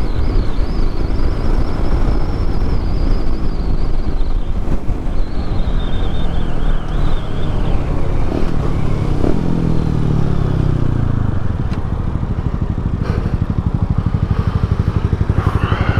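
Yamaha MT-07's parallel-twin engine running under way, its revs dropping as the bike slows about nine to eleven seconds in, then idling with an even, steady pulse.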